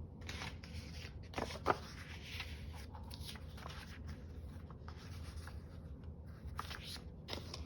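Paper and craft scraps being handled and shuffled on a work table: soft rustling and rubbing with a few light ticks and taps, over a faint steady low hum.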